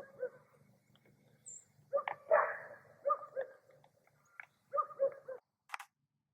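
A dog barking in a run of short, repeated barks, over a faint low hum that stops about five seconds in.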